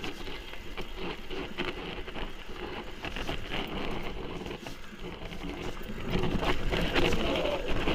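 Mountain bike rolling down a rough trail: tyres crunching over stones and the bike rattling with many small clicks, getting louder about six seconds in.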